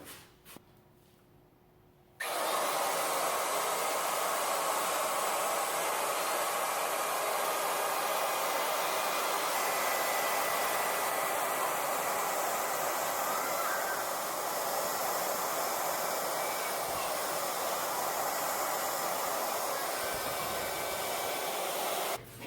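Electric power tool motor switched on, running steadily for about twenty seconds, then switched off near the end.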